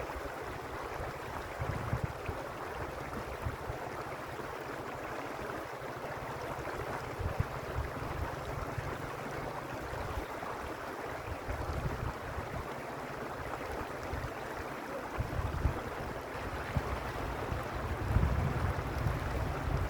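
Stream water rushing and babbling steadily, with irregular low gusts of wind rumbling on the microphone that grow stronger near the end.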